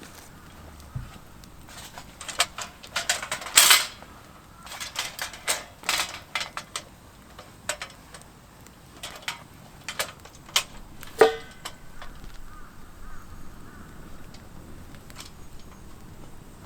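Irregular sharp clicks and knocks in two clusters, the loudest with a brief ringing tone about eleven seconds in.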